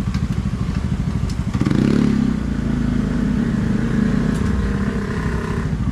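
Honda XR200's single-cylinder four-stroke engine idling steadily, with a brief rise in revs about two seconds in.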